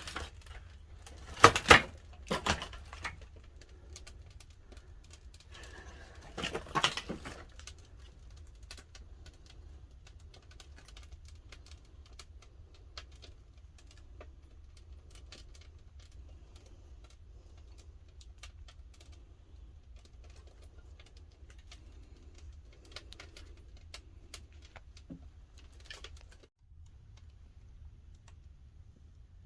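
Pine firewood burning in a wood-fired pottery kiln, crackling and popping in scattered sharp snaps. Louder knocks come about two seconds in and again around seven seconds in.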